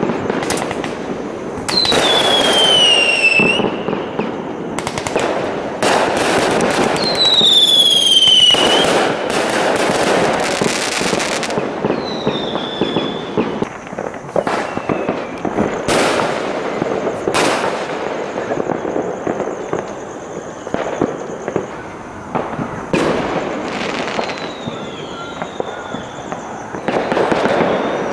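Consumer fireworks going off all around: repeated bangs and crackling bursts, with whistling fireworks giving two clear whistles that fall in pitch, about two and seven seconds in, and fainter ones later.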